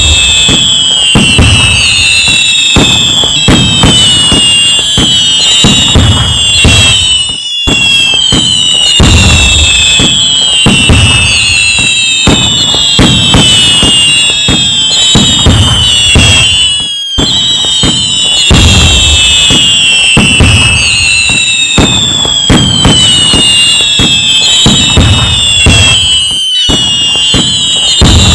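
A dense fireworks barrage: rapid bangs and crackles layered with many falling whistles from whistling rockets. The sound is loud throughout, with brief dropouts about every nine to ten seconds where the recording loops.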